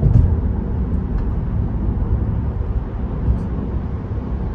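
Steady low road and tyre rumble of a Tesla driving at freeway speed, heard from inside the cabin.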